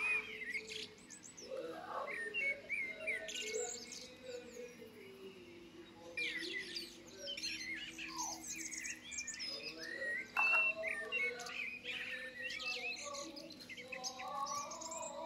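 Birds chirping: many short, quick chirps that rise and fall in pitch, coming thick and fast throughout.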